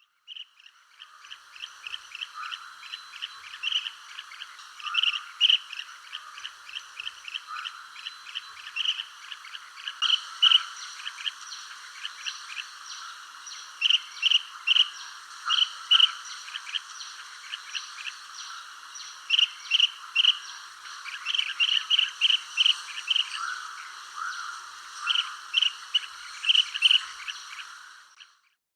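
A dense chorus of small birds chirping in rapid short notes, with louder bursts of chirps every few seconds, over a steady high background of insect-like trilling. It fades in at the start and fades out near the end.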